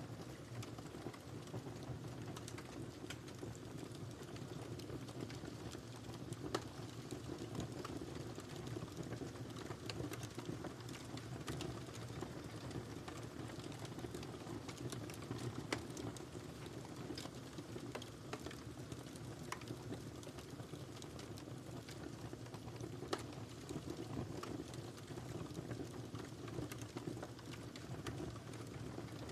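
Wood fire in a fireplace burning steadily with a low rumble, crackling and popping irregularly; sharper pops stand out three times.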